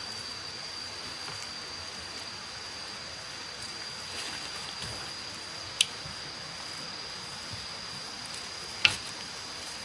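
Steady hiss of rain in a forest, with a thin, high steady whine over it, broken by two sharp pops about three seconds apart.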